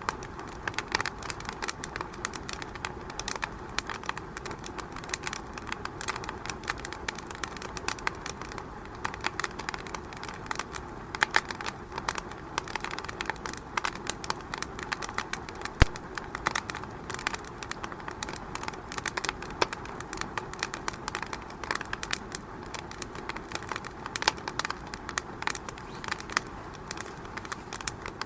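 Fire in a fireplace crackling: a steady hiss with frequent irregular sharp pops, one louder pop about halfway through.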